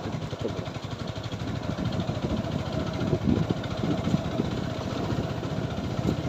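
Single-cylinder engine of a TVS Apache 4V motorcycle running steadily, a fast even pulsing.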